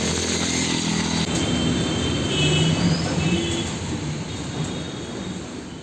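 A motor vehicle's engine running over a steady hiss of heavy rain and wet road.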